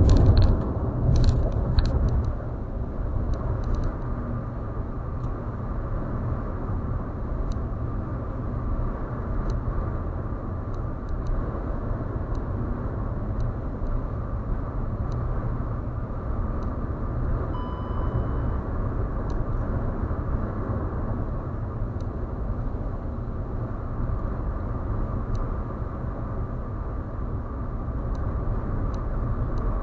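Steady road noise of a vehicle driving at highway speed: a low rumble of tyres and engine, louder for the first couple of seconds. A short faint beep a little past halfway.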